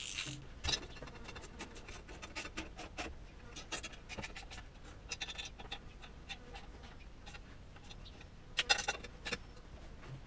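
Ratchet wrench clicking in short, irregular runs while the exhaust header bolts are tightened, with a louder burst of clicks near the end.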